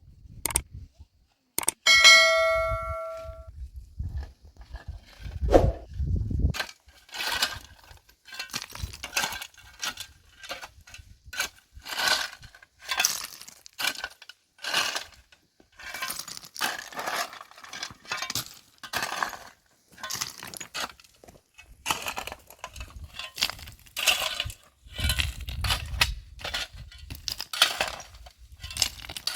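A single ringing metallic ding about two seconds in, then a long run of irregular knocks and clatter of hard objects, about one or two a second.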